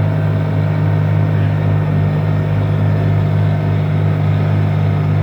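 Mahindra eMAX 20 tractor's three-cylinder Yanmar diesel engine running at a steady speed, a constant low drone with no change in pitch.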